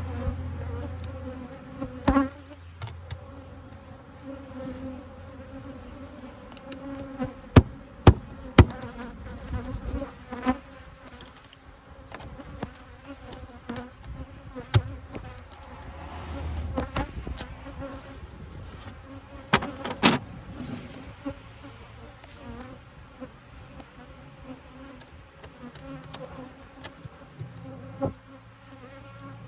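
Swarm of agitated honeybees buzzing in a steady hum around an opened hive. Several sharp knocks of hive equipment being handled break in, a cluster of three about eight seconds in and another pair near twenty seconds.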